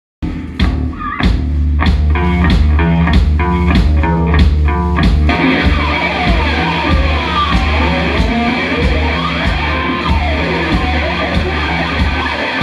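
Heavy metal band playing live: drums and electric guitar with a chugging low riff, the sound thickening into the full band about five seconds in.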